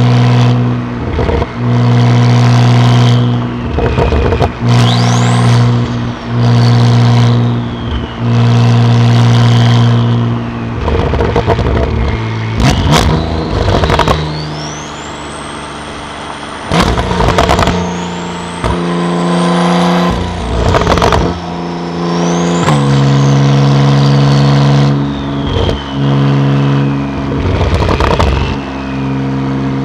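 Porsche 911 Carrera (991.2) twin-turbo flat-six with a titanium exhaust, driving. The engine note holds steady, then drops away and comes back several times, changing pitch in steps, with short clunks at some of the breaks. A high whine glides up and down above it several times.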